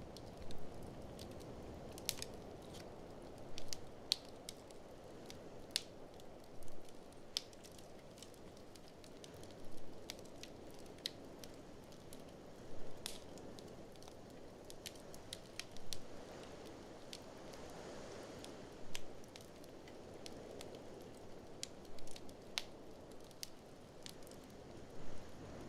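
Wood fire crackling, with irregular sharp pops every second or two, over the steady rushing of blizzard wind.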